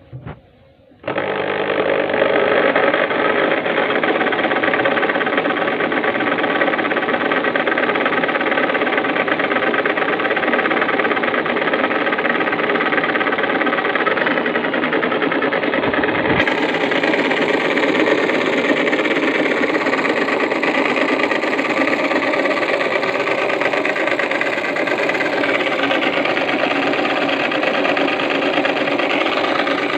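Electric drill driving a homemade rotary grater, starting about a second in and then running steadily at full speed.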